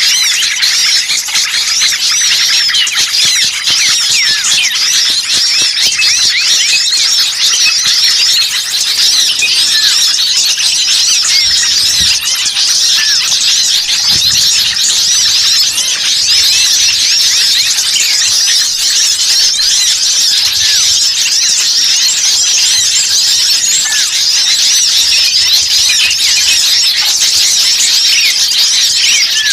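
Dense chorus of many small songbirds chirping and twittering at once, a continuous mass of quick, high, overlapping calls: a noisy mixed-flock lure recording ("burcil ribut") used to attract wild birds.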